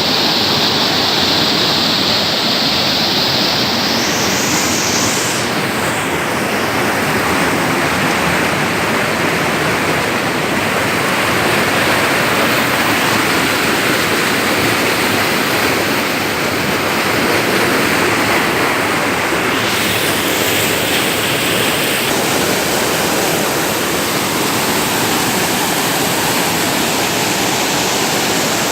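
Steady rushing of flowing water, an even loud roar with no breaks.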